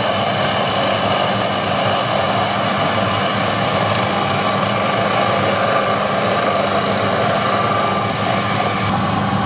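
Proxxon PD 250/E mini lathe running steadily while a large-radius insert turns the corner at the base of a shaft: a steady motor whine with a high hiss that drops away near the end.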